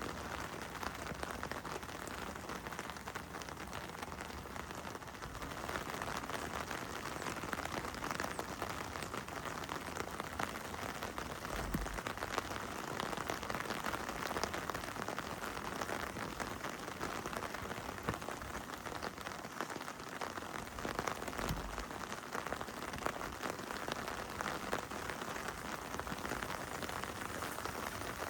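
Heavy rain falling steadily: a continuous hiss made of countless pattering drops.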